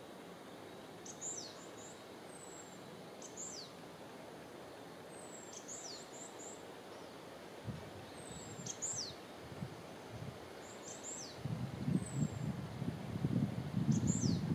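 A small songbird calling: a short phrase of high, quickly falling notes, repeated every two to three seconds over a faint steady outdoor hiss. An uneven low rumble builds over the last few seconds.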